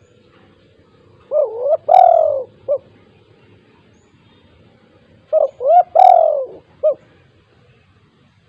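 Spotted dove (tekukur) cooing: two phrases about four seconds apart, each a few short coos around one longer, loudest coo.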